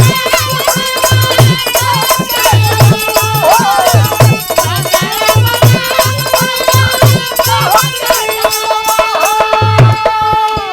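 Instrumental interlude of a Bhojpuri birha folk song: a hand drum keeps a steady beat under a sustained, wavering melody, with jangling rattle-like percussion.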